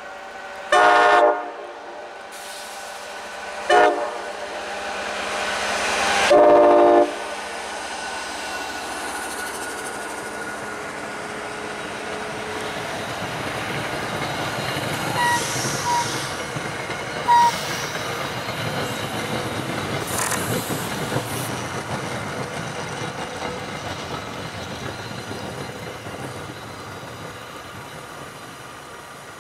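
MBTA HSP46 diesel commuter locomotive #2007 sounding its horn: a long blast, a short one, then a longer final one, the close of a grade-crossing signal. The train then rumbles past, its wheel and engine noise building for about fifteen seconds before slowly fading.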